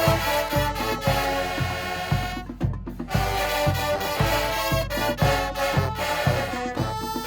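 High school marching band playing: brass horns over a steady drum beat of about two strokes a second.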